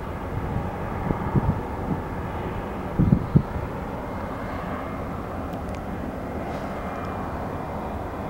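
Steady drone of a diesel locomotive working a slowly moving cut of freight cars. The cars give low clunks about a second in, and a louder cluster of them about three seconds in.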